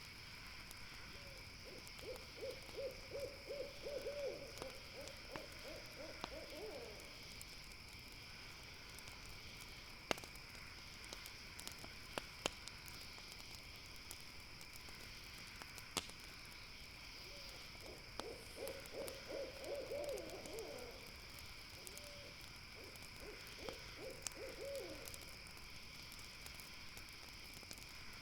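An owl calling in long runs of rapid, evenly spaced hoots, twice, with a shorter run near the end, over a steady high chirring of night insects. A few sharp campfire crackles pop in between.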